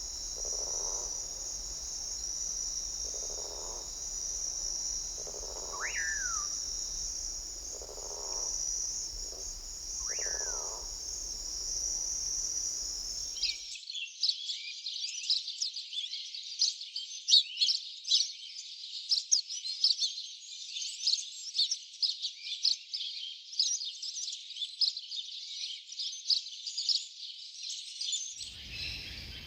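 Rainforest soundscape: a steady high insect drone with soft low calls repeating every two seconds or so and two falling whistled bird notes. About halfway through it cuts abruptly to a dense flurry of rapid high-pitched bird chirps.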